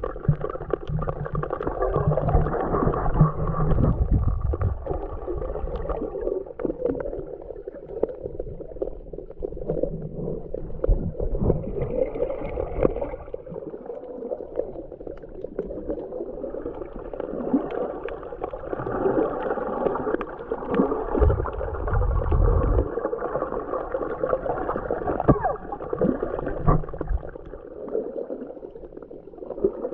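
Muffled underwater sound of a camera submerged in shallow seawater: gurgling, sloshing water with scattered clicks and a couple of low rumbles, one about three seconds in and one near the two-thirds mark.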